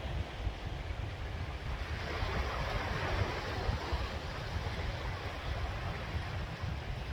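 Sea waves washing ashore, one wave swelling about two seconds in and then easing off, with wind buffeting the microphone as a low rumble throughout.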